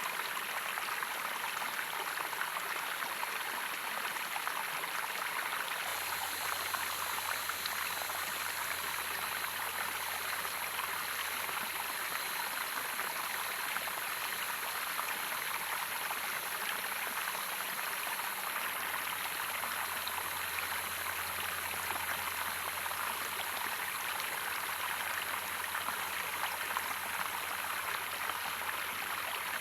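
Running water in a stream: a steady, even rushing and splashing that never lets up.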